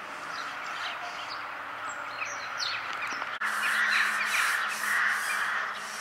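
Small birds chirping outdoors over a steady background hiss. After a cut about three and a half seconds in, a bird gives loud, harsh calls, about five in quick succession, over a faint low hum.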